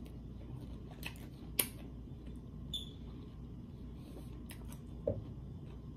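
Chewing a seasoned baby cucumber: a few separate sharp crunches and wet mouth clicks, the loudest about one and a half seconds in.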